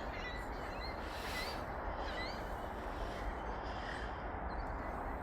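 Birds calling with short scattered chirps and calls over a steady rushing background noise.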